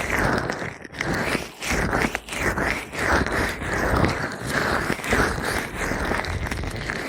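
Oiled, gloved hands massaging an ASMR ear microphone: close, slick rubbing in repeated strokes, about two a second.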